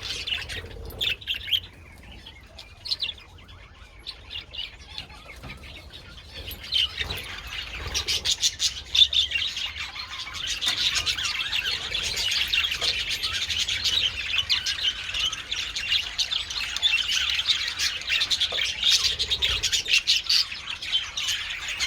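A flock of budgerigars chattering and chirping. The chatter is thinner for the first several seconds, then builds to a dense, continuous chorus about seven seconds in.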